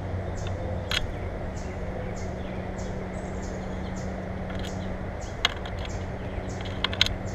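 Birds at a feeder: short high chirps repeating about twice a second, with a few sharp clicks and taps, about a second in and near the end, over a steady low hum.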